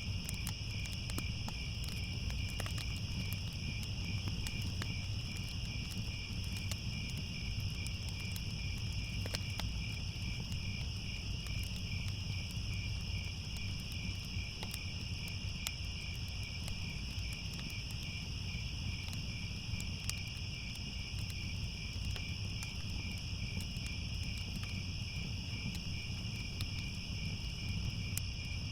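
A continuous chorus of crickets chirping in a steady, fast pulse, over a low rumble with scattered faint clicks.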